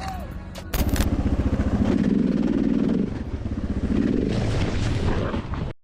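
A motorcycle engine running, its rapid firing pulses starting abruptly about a second in after a brief sharp noise, then cutting off suddenly near the end.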